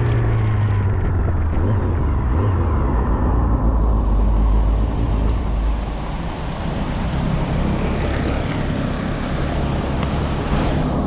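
Motorcycle running on the road, its engine rumble mixed with a steady rush of wind noise on the microphone that brightens a few seconds in.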